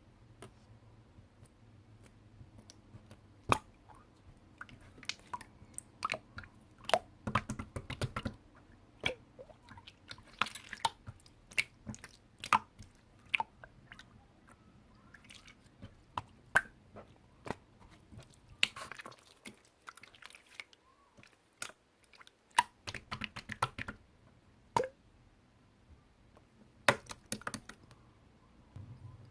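Slime being pressed and squished by hand, making irregular sticky clicks and small crackling pops, with a quieter pause about two-thirds of the way through.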